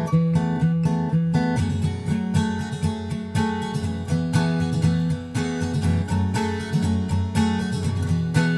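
Background music: an acoustic guitar arrangement, plucked and strummed with a steady rhythm.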